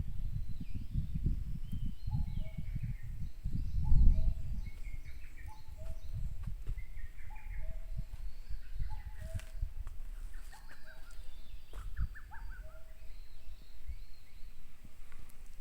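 Several wild forest birds singing. One repeats a short, low two-note whistled phrase about every second to second and a half, while others add higher chirps and short trills. A low rumble runs underneath, strongest about four seconds in.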